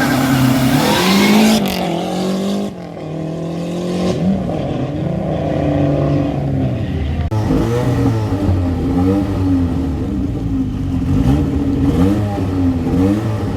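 Historic rally car engines revving hard under acceleration, the pitch rising and dropping again and again through gear changes, with the sound changing abruptly a few times from one car or shot to the next.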